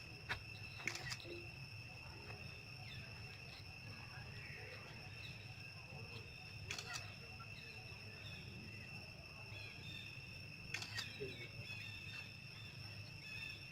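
Steady high-pitched insect drone, with a few sharp clicks about a second in, near the middle and about three quarters of the way through.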